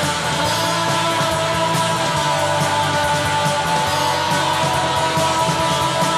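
Studio recording of a guitar rock band playing: electric guitars holding sustained chords over bass and drums, with cymbals hit steadily throughout.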